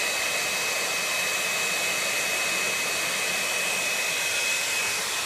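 Handheld blow dryer running steadily, an even rush of air with a thin high whine.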